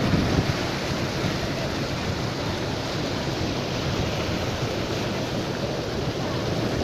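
Steady rushing hiss of heavy rain and running water.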